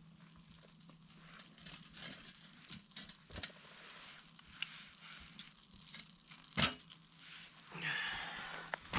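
Faint scattered clicks and rustling of things being handled, with one sharper click about two thirds of the way in, over a low steady hum.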